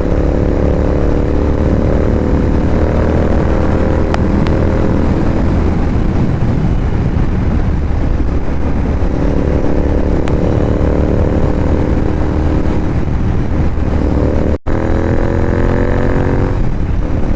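Royal Enfield Interceptor 650's parallel-twin engine breathing through a Red Rooster aftermarket exhaust, running with a steady, slowly shifting note. It drops out briefly near the end, then the note rises as the engine revs up.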